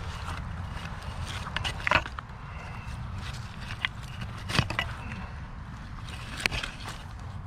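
Digging and scraping in stony ground around a buried rock, with four sharp knocks, the loudest about two seconds in.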